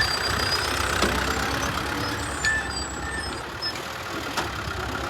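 Tractor engine running steadily, a low rumble, with a few short high chirps over it.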